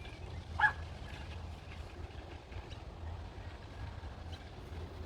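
One short bird call about half a second in, over a steady low outdoor rumble.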